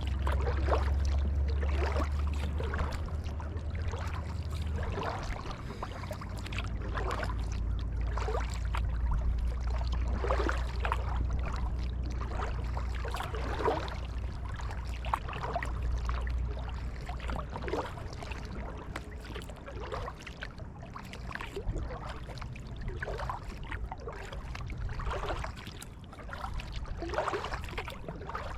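Kayak paddle blades dipping and pulling through calm creek water, splashing and trickling about once a second in an even rhythm, over a low steady rumble.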